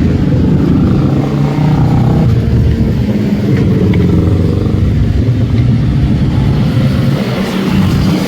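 Sport motorcycle engines running loud and steady, their pitch shifting about two seconds in.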